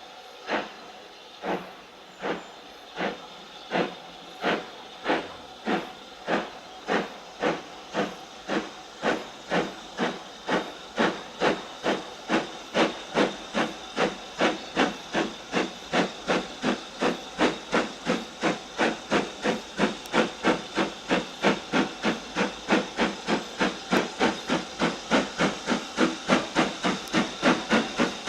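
Steam locomotive exhaust chuffing as it pulls away, the beats quickening from slow, separate puffs to about three a second and growing louder as it gathers speed.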